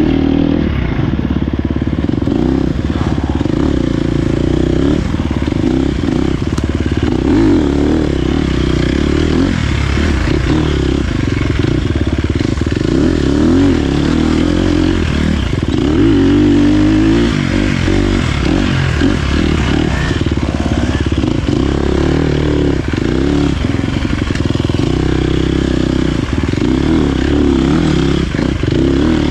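Dirt bike engine being ridden off-road, the revs rising and falling constantly with throttle and gear changes, without a break.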